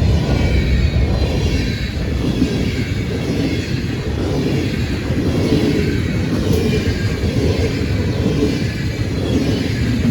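Freight train passing at speed: a steady, dense rumble of cars rolling over the rails, with a fainter hiss above it.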